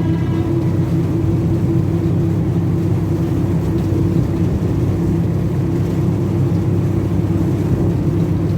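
Engine of a tourist road train running steadily, a constant low drone with a steady hum.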